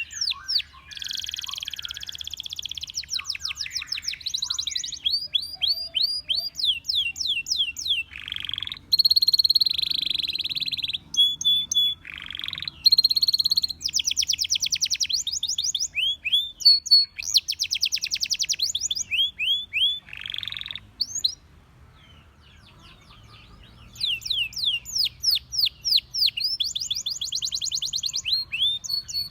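Domestic canary singing in long rolls: fast trills of repeated falling notes, broken by a few held, pure whistled notes, with a short pause about two-thirds of the way through.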